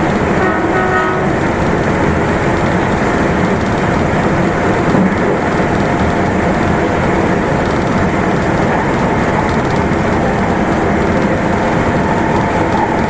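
Meitetsu Nagoya Main Line limited express train running, a steady rumble of wheels on the rails. Brief high tones are heard near the start, and a faint steady tone comes in later.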